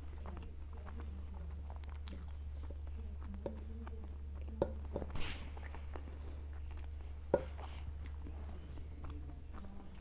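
Chewing of makki ki roti and sarson ka saag, picked up close by a clip-on microphone: soft wet mouth sounds with many small clicks. A few sharper clicks come about halfway through as the bowl is handled, over a steady low hum.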